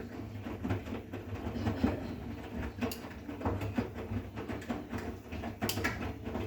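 Bosch WGA 2520TR front-loading washing machine washing a load, its drum turning the wet laundry with a steady low motor hum and irregular knocks and rustling.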